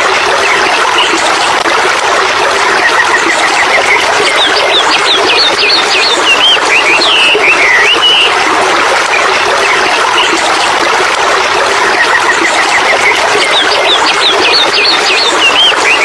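Birds chirping and trilling over a steady rush of running water, with the chirps coming in clusters twice.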